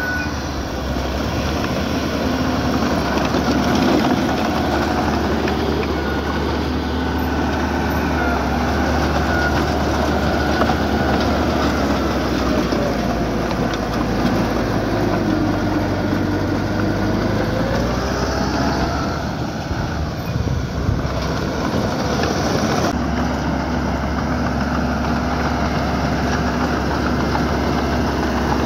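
Diesel engine of heavy earth-moving equipment running steadily, with a thin high squeal now and then. The sound changes about 23 seconds in.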